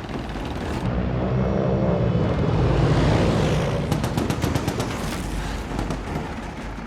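Air-battle soundtrack: propeller aircraft engines droning and swelling as a plane passes, then rapid machine-gun fire from about four seconds in.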